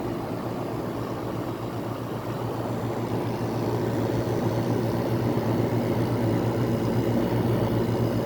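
1985 White-Westinghouse window air conditioner running: its fan blowing air over a steady low hum from the rotary compressor. The sound grows a little louder about three seconds in.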